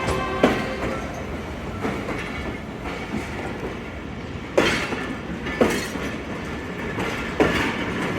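Passenger coaches' wheels rolling over rail joints with a continuous rumble. There is a sharp metallic clank about half a second in, and more clanks near the middle and again near the end.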